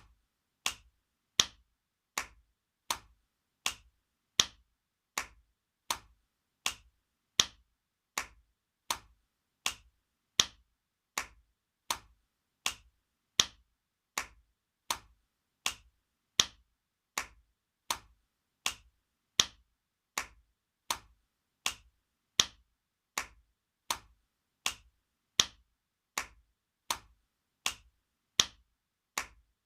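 Spanking sound effect: a hand smacking bare skin in sharp slaps, repeated steadily about every three quarters of a second, some strikes louder than others.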